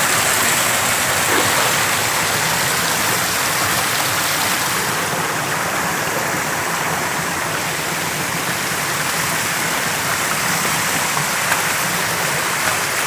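Creek in flood rushing and splashing over rocks: a steady, loud water noise with no pauses.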